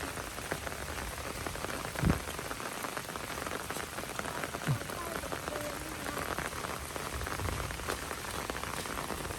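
Steady heavy rain falling on surfaces, with two short low thumps about two and five seconds in.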